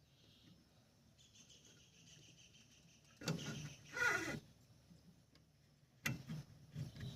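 Faint bird calls: a steady high chirping note for about two seconds, then two louder calls a little past the middle, the second falling in pitch. A sharp click near the end comes from the LED bulb being fitted into the headlight's holder cap.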